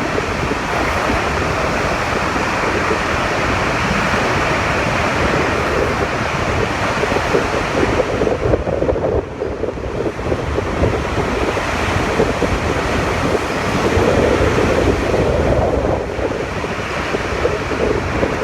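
Hurricane-force wind gusting hard, buffeting the microphone in a continuous heavy rush that swells and eases briefly about halfway through.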